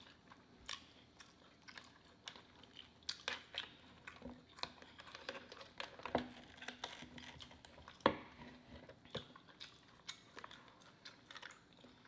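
Close-miked eating of boiled lobster: wet chewing and mouth smacks with irregular sharp clicks and crackles as the shell and meat are handled and pulled apart by hand. The sharpest crack comes about eight seconds in.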